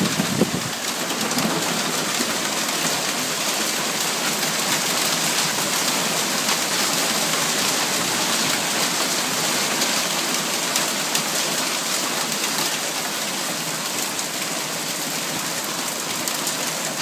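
Heavy hail and rain pelting down without letup: a dense, steady hiss of countless small ticks and patters.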